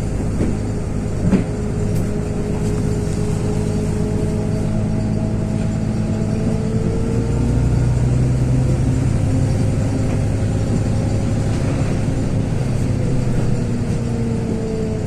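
LiAZ 6213.22 articulated bus under way: a steady engine and drivetrain drone with a whine that slowly rises and falls as the speed changes, and a single knock about a second in.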